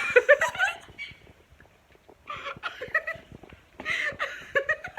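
Short bursts of young women's voices and laughter, three in all, with brief pauses between them.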